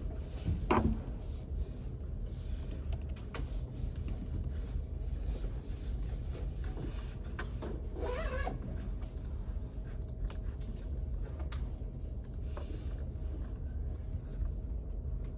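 Library room tone: a steady low hum of ventilation with a faint constant tone. Two short pitched sounds break in, one just under a second in and a wavering one about eight seconds in.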